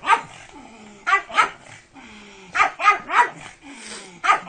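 A pug in a plastic cone collar barking: about eight short, sharp barks, coming singly and in quick pairs about a second apart.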